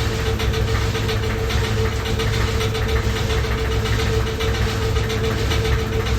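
Washing machine running loudly: a steady whine over a low rumble, with a fast, even rattling knock.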